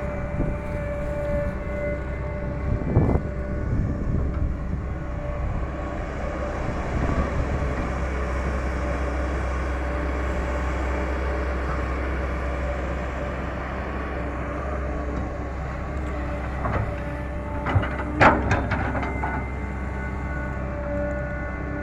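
Diesel engine of a Caterpillar 318 hydraulic excavator running steadily under work. A few knocks sound about three seconds in, and a sharper cluster of clanks comes near the end.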